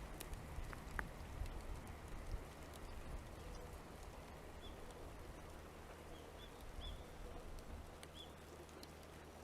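Light rain pattering, with a low steady hum underneath and a few short, high bird chirps in the second half.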